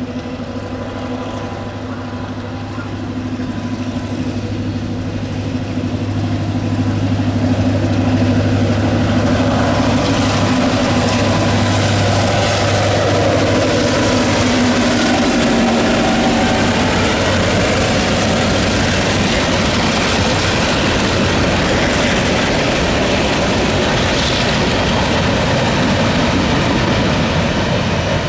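Diesel freight locomotives passing with a steady low engine drone. From about six seconds in, the noise grows louder as a steady rolling rumble of freight car wheels on the rails takes over, and the engine drone fades out around the middle.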